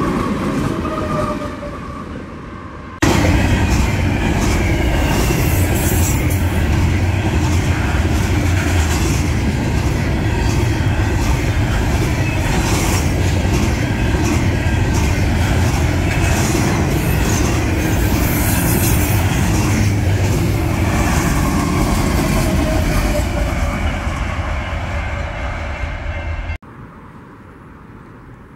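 Union Pacific double-stack container train rolling past close by: a loud, steady rumble with the wheels clicking over the rail joints and thin squeals from the wheels. It starts with a shorter passage of locomotives fading away, and near the end it cuts off abruptly to a much quieter low rumble.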